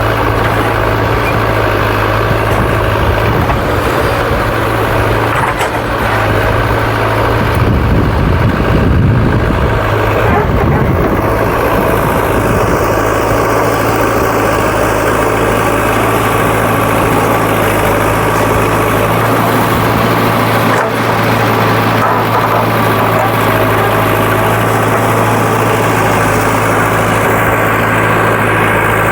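Heavy diesel engine of a backhoe loader or tractor running steadily, with a brief swell of low rumble about eight to ten seconds in.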